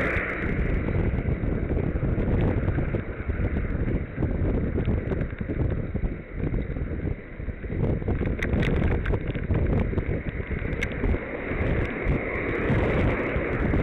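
Wind buffeting the microphone of a camera carried on a bicycle ride: a loud, uneven rumbling noise, with a few faint clicks about eight and eleven seconds in.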